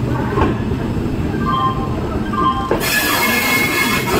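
Passenger train wheels running on the rails with a steady rumble and a sharp clack or two at the rail joints. From about a third of the way in, short high squeals start, and in the last second and a half the wheels give a loud metallic squeal with a hiss.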